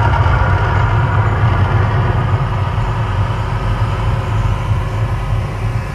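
Mirage volcano show's deep, steady rumble, easing off slightly toward the end.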